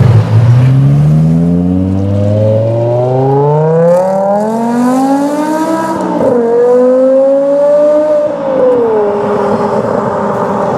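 BMW M5 E60's V10 engine through a Botter aftermarket exhaust, accelerating hard: the note climbs steadily for about six seconds, breaks briefly, holds high, then falls and settles lower near the end.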